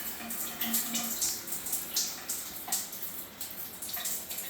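Kohler Anthem thermostatic shower valve at its lowest setting, with water hissing faintly and unevenly through the system and a brief faint hum under a second in. The hiss, which stops when the valve is truly off, shows that the valve is not fully shutting off at its bottom setting.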